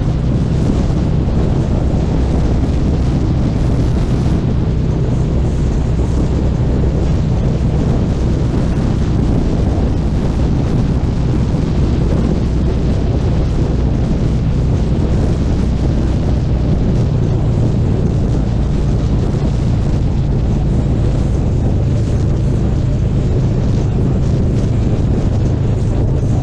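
Harley-Davidson Street Glide Special's V-twin engine running steadily while riding, with heavy wind noise on the microphone.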